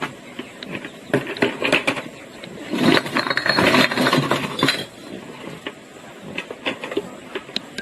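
Irregular clinking and knocking of hard objects, with a denser, louder run of knocks about three to five seconds in.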